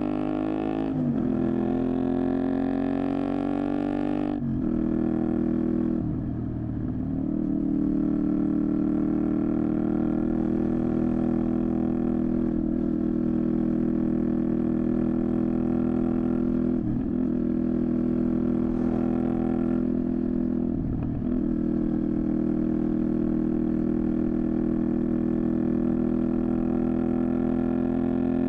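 Honda VTR250 V-twin motorcycle engine with a Moriwaki exhaust under way. The note climbs over the first few seconds, breaks for an upshift about four seconds in, then holds steady at cruising speed with a few short dips where the throttle eases.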